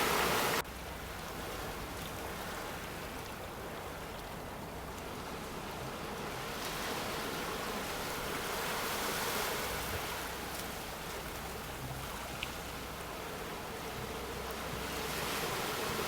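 Sea waves breaking on a shore: a steady rush of surf that swells and eases, building around the middle and again near the end. A louder stretch of the same rush cuts off abruptly just after the start.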